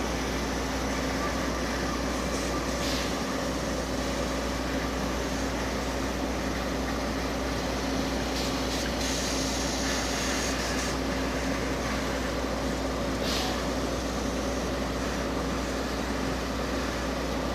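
Steady mechanical hum of a standing train, holding one low tone, with a few short hisses.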